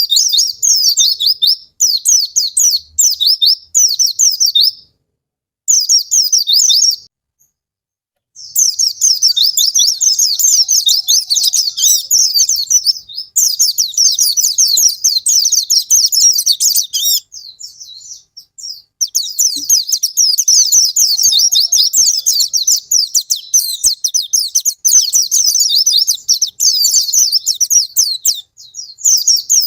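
White-eye (pleci) song: long runs of fast, high twittering, broken by short gaps about five and seven seconds in and a quieter patch just past the middle.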